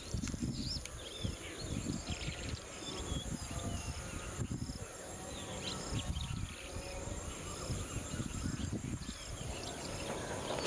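Birds chirping in short, quick, pitch-bending notes over a steady high insect drone, with a low wind rumble on the microphone.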